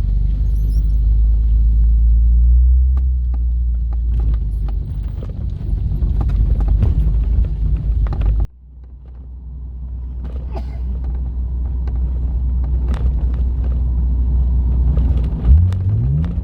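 BMW E36 328i inline-six exhaust through a MagnaFlow muffler, a steady low drone while the car is under way. The drone drops out abruptly about halfway through and builds back up, and near the end the engine revs in a quick rise in pitch.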